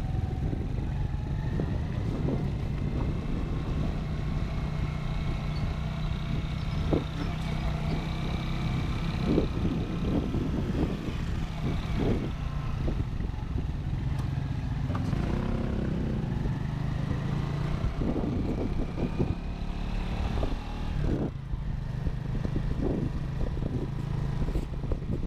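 Motorcycle engine running steadily while riding, with wind rumbling on the microphone and occasional short knocks.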